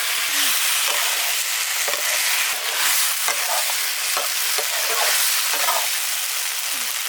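Food sizzling steadily as it fries in hot oil in a pan, with irregular scrapes of a utensil stirring it about once a second.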